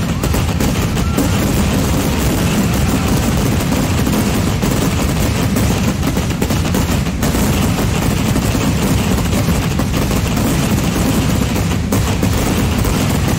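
A dense Kerala vedikettu fireworks barrage: firecrackers and shells go off so fast that the bangs merge into one continuous crackling rumble, with no let-up.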